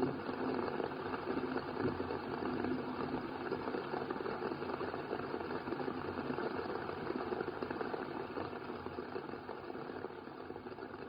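Steady hiss of heavy rain, easing off slightly near the end.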